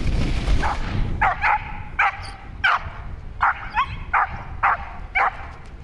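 A dog barking in about ten short, high yips, roughly two a second, over a low wind rumble that fades in the first second.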